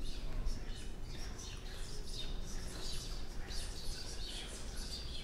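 Birds chirping, many short, quick calls overlapping, over a low steady rumble.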